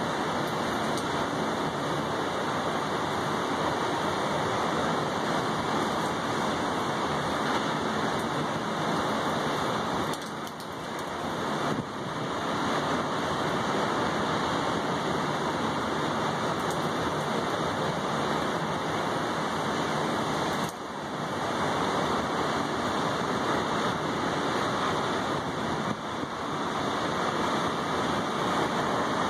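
Rain falling steadily on a balcony's wet tabletop and railing: an even hiss that dips briefly a few times.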